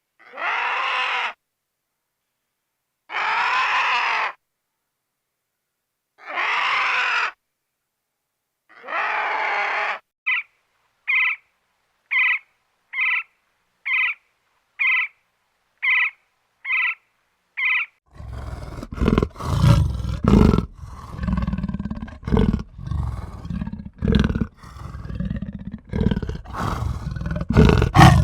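A sequence of recorded animal sounds: four rough calls about a second long each, then a row of short high pips about one a second, then irregular rapid clattering to the end.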